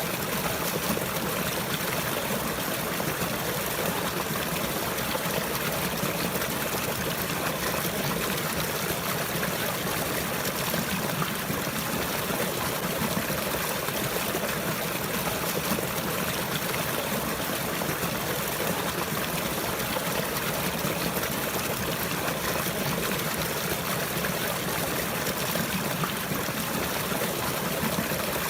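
Running water flowing steadily, an even unbroken rush with no music or voice.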